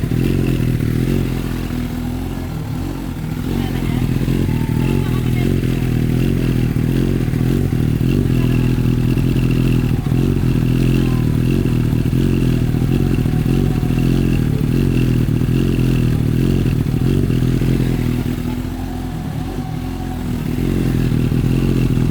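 Suzuki GSX-S1000's inline-four engine idling through a Yoshimura R77 exhaust, warming up after a cold start. It runs steadily, with two short spells where it goes a little quieter.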